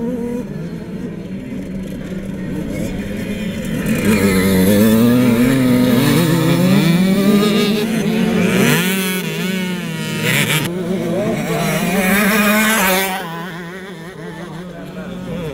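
Several 65 cc two-stroke motocross bikes racing, their engines revving up and down over one another. The sound fades noticeably near the end.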